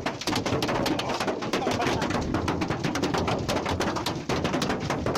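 Hailstones striking hard surfaces in a heavy hailstorm: a dense, irregular clatter of many sharp impacts a second.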